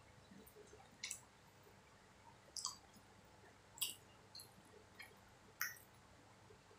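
Close-up chewing of soft, sticky martabak manis (sweet thick pancake with chocolate and corn topping): about six scattered wet mouth clicks and smacks over a quiet room, the loudest about four and five and a half seconds in.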